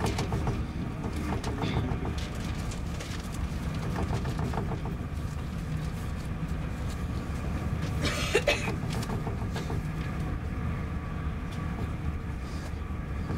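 Inside the carriage of an SJ X2000 train running at speed: a steady low rumble of the train on the track. A brief sharp noise stands out a little past the middle.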